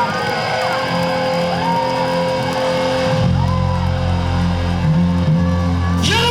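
Rock band playing live with electric guitar over held chords; the bass and full band come in heavier about three seconds in, and a voice starts near the end.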